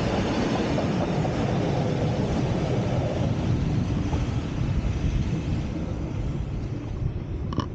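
Glacier Express train running on the rails, a steady rumble that eases slightly in the second half.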